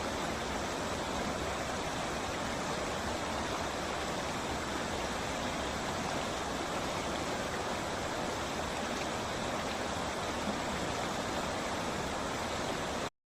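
Steady rushing water, an even wash of noise without surges, that cuts off abruptly just before the end.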